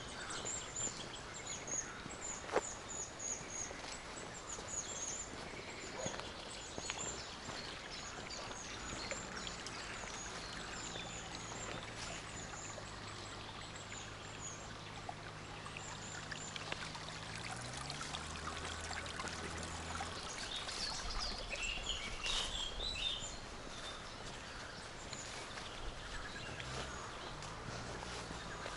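Forest ambience with small birds calling in short, high, thin chirps, and a clearer song phrase about three-quarters of the way through. A faint low hum sits underneath through the middle and shifts in pitch shortly before it fades.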